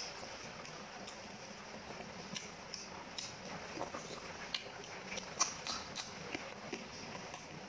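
Close-miked eating sounds: a person chewing beef curry and rice by hand, with scattered wet mouth smacks and sharp clicks throughout.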